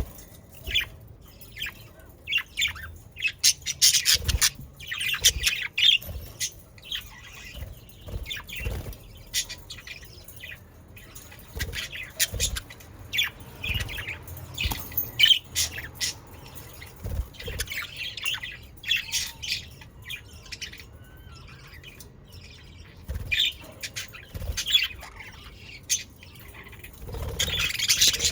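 A flock of budgerigars chirping and squawking in an aviary, with many short, overlapping calls and low thumps from birds moving about.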